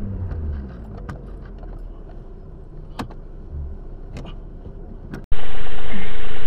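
Car engine heard from inside the cabin, its pitch falling as the car slows to a stop, then running quietly with a few sharp clicks. About five seconds in, the sound cuts abruptly to a much louder, steady vehicle noise.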